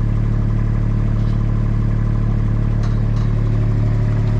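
Diesel engine of a Takeuchi machine running steadily with a constant low hum, no revving.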